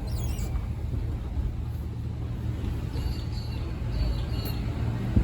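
Steady low rumble of a car driving, heard from inside the car, with a few faint high chirps about three seconds in.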